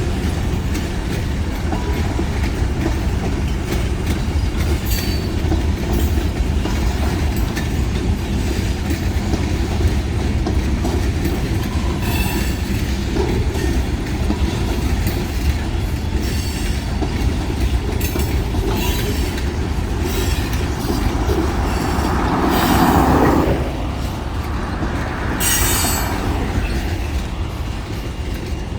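Kiamichi Railroad freight train rolling past at speed: a steady low rumble with wheels clicking over the rail joints and occasional squeal from the wheels, swelling louder for a moment about 22 seconds in.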